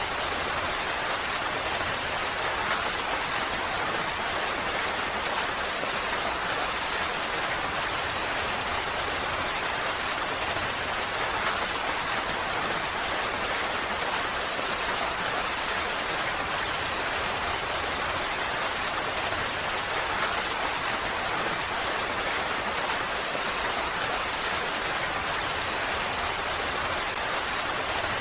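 Steady rain falling, an even hiss of many drops with faint scattered drip ticks and no change in strength.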